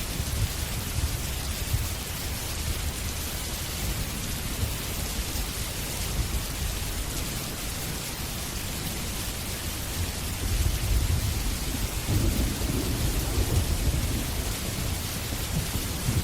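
Steady heavy rain with low rolling thunder, the rumble swelling about ten seconds in and easing toward the end.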